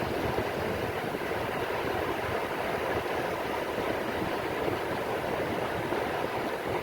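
Rain falling on the sea: a steady, even hiss with no surges or breaks.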